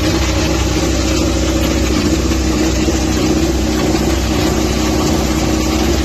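Ducati Desmosedici V4 racing motorcycle engine running at a steady, constant speed without revving.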